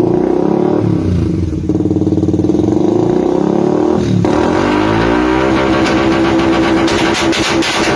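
Suzuki Raider 150 single-cylinder engine revving through an aftermarket exhaust: two throttle blips in the first four seconds, then a steady high idle, with a rapid crackling clatter near the end.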